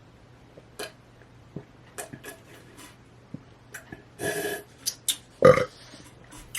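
Small scattered clicks and handling noises of someone eating at a close microphone, with a brief rustle about four seconds in and a loud, short mouth or breath sound about five and a half seconds in.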